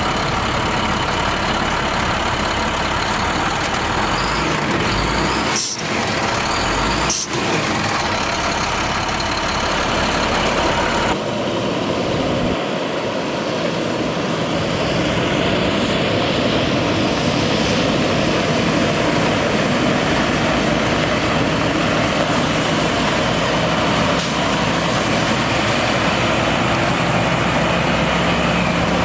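International MaxxForce DT diesel engine of a water truck running steadily with the PTO water pump engaged and all sprayers shut. Two brief clicks come about six and seven seconds in, and from about halfway a steady hiss builds: the pressure relief valve opening as pressure builds, letting water rush back into the tank.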